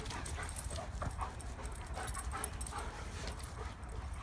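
A Dogo Argentino puppy and an adult German Shepherd play-fighting: a run of short whines and panting.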